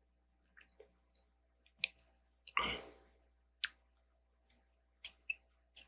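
Small plastic Lego pieces clicking and clacking as they are handled and fitted together, in a string of about ten short, irregular clicks with a slightly longer clatter about two and a half seconds in.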